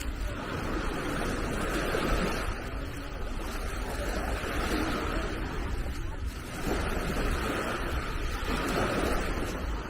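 Small sea waves washing onto a beach, the surf rising and falling every few seconds, with wind rumbling on the microphone.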